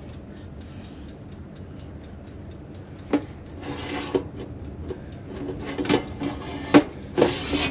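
Scraping and rubbing from a baking tray being handled and slid into a small oven, with several sharp knocks, starting about three seconds in.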